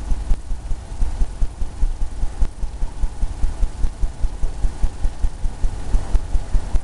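Oil-paint brush dabbing and tapping against a canvas on an easel: a quick, uneven run of low thumps, about four a second.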